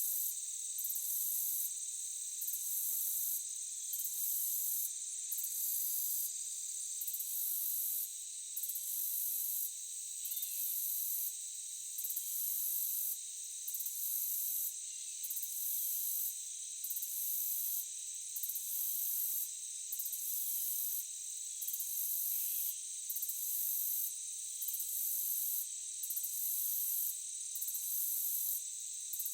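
Forest insect chorus: a dense, shrill, high-pitched trilling of crickets or similar insects, with the highest part pulsing on and off about every one to one and a half seconds.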